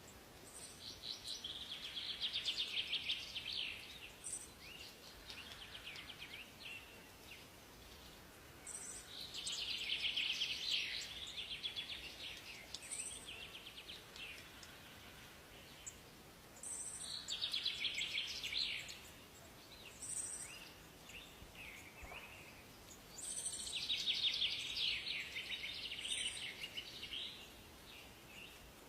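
A songbird singing four fast, trilled song phrases a few seconds apart, over a faint steady background hiss.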